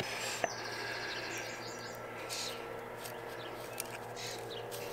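Wild birds chirping, with several short high calls sweeping downward and a quick repeated trill about half a second in.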